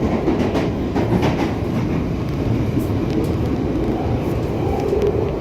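Interior of a London Underground Northern line 1995 Stock train running through a tunnel: a steady rumble with scattered wheel clicks over the rail joints.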